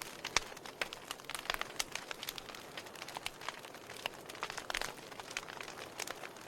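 Burning logs in a fireplace crackling, with irregular sharp pops and snaps over a soft hiss of flame.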